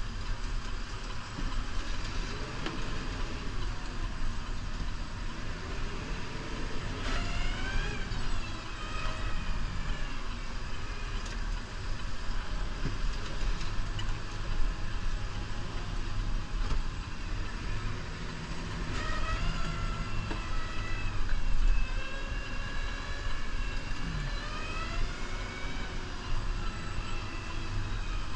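New Holland Powerstar 75 tractor's diesel engine running steadily while plowing snow. A whine rises and falls in pitch around eight seconds in, and again several times from about nineteen seconds on.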